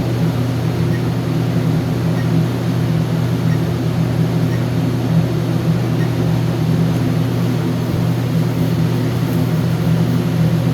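A steady low machine hum with a constant pitch.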